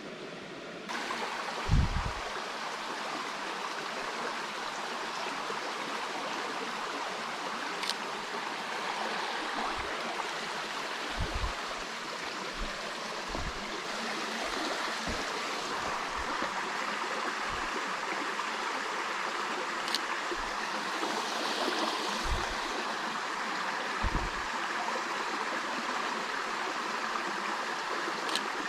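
Steady rushing of running water, like a flowing stream, with a few soft low thumps and three faint sharp clicks scattered through it.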